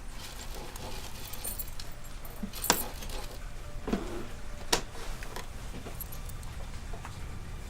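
Small metal objects jingling and clinking, with two sharp clicks about two seconds apart.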